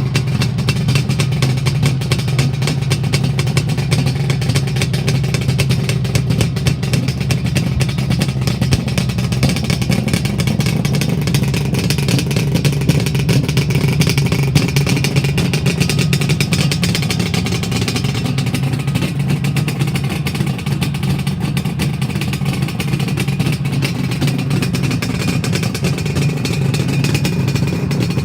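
1977 Suzuki GT550A's air-cooled two-stroke triple running steadily through Gibson 3-into-4 expansion-chamber exhausts, still cold with the choke on.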